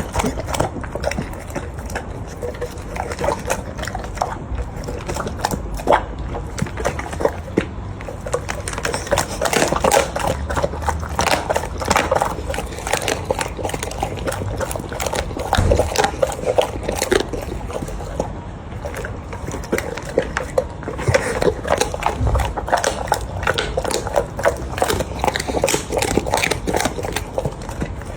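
A cat eating, with many small wet smacking and clicking sounds coming irregularly throughout.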